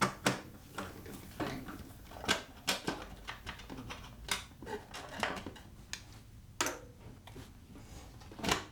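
Scattered light clicks and knocks, a dozen or so at uneven spacing, of a motorcycle's bolted-on plastic side panel being unbolted and lifted off and the small parts handled.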